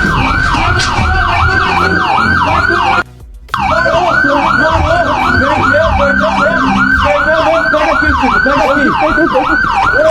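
Police siren in a fast yelp, about four rising-and-falling sweeps a second, cutting out briefly about three seconds in, with a vehicle engine running underneath.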